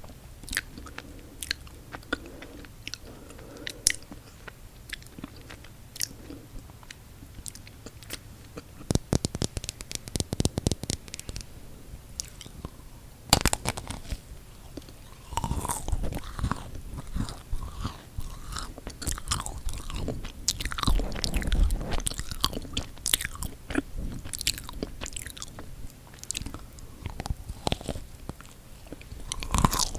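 Close-miked eating of chocolate-coated marshmallow cookies, with bites through the chocolate shell and chewing of the soft marshmallow. At first there are only a few small mouth clicks. About nine seconds in comes a quick flurry of crisp crackles, then a sharp bite around thirteen seconds. From about fifteen seconds on there is steady chewing full of small wet clicks.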